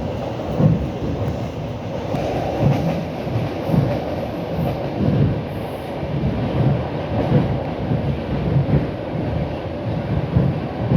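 Suburban electric train running at speed, heard from inside the carriage: a steady rumble with the repeated clickety-clack of wheels passing over rail joints.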